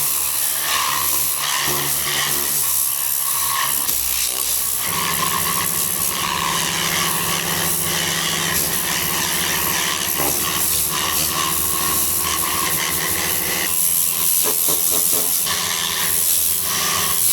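Steady hissing noise from car-detailing equipment at work, with a motor hum that comes in about five seconds in and drops away near fourteen seconds.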